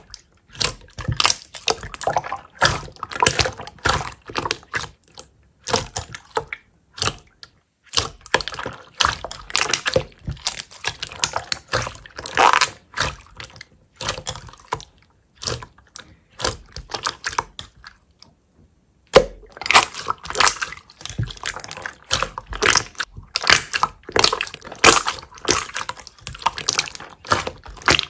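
Slime being squished and worked by hand: rapid, irregular wet clicks, pops and crackles, with a pause of about a second and a half roughly two-thirds of the way in.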